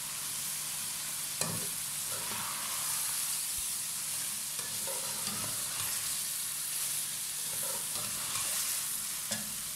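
Chicken karahi sizzling as it fries in a metal karahi while a slotted spoon stirs it, scraping through the masala, with a few sharp clicks of the spoon against the pan.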